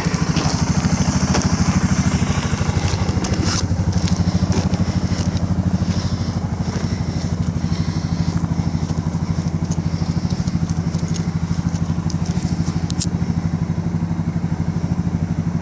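Suzuki DR650 and Honda CRF150 single-cylinder motorcycle engines idling steadily, warming up after their first start of the spring, with a few light clicks over the idle.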